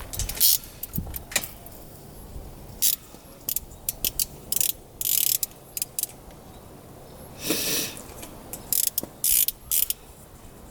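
Ratchet wrench clicking in repeated short bursts, with quiet gaps between them.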